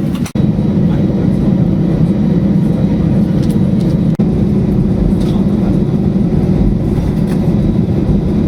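Steady low rumble of a vehicle in motion, heard from inside it, with a brief dip about four seconds in.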